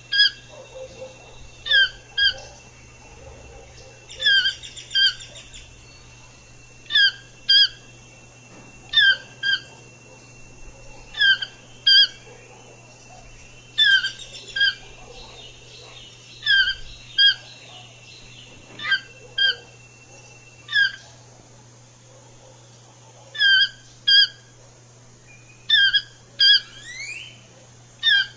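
A bird calling over and over with short, sharp two-note calls, a pair roughly every two seconds. A faint steady high tone sits underneath until about twenty seconds in.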